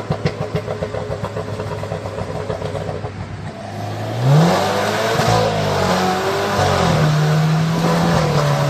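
BMW 328i engine through an aftermarket exhaust with downpipe and Varex valves, running with a rapid pulsing beat, then revved up about four seconds in and held at a steady higher rev.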